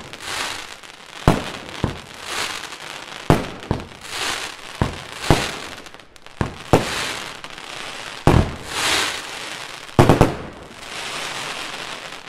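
Tsubasa 16-shot fireworks cake firing: a sharp bang every one to two seconds, each followed by a second-long crackling hiss of crackling stars. A tight double bang comes about ten seconds in, then a longer crackle that dies away near the end.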